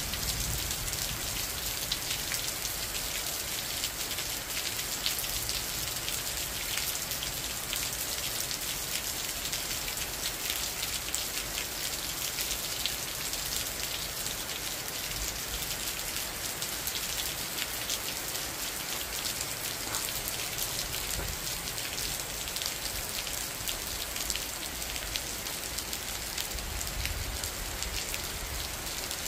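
Steady rain falling on a forested mountainside and paved ground: an even hiss sprinkled with the ticks of individual drops.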